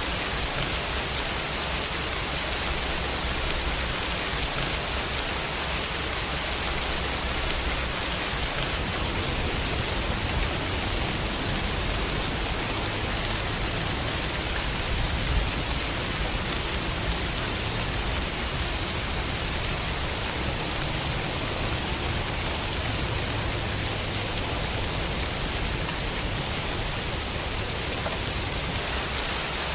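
Steady rain falling, an even hiss without breaks or pauses.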